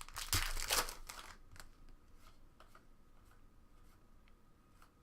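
Trading-card pack wrapper crinkling for about a second, then faint clicks and slides of cards being handled.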